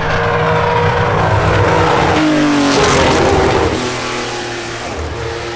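A car running past at speed under hard acceleration: the engine note climbs, is loudest as it passes about three seconds in, then drops in pitch and fades as it pulls away.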